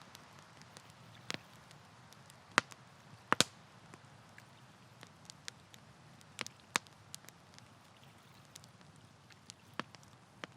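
Wood campfire crackling: irregular sharp pops and snaps over a low, steady background hiss, with the loudest pops a few seconds in.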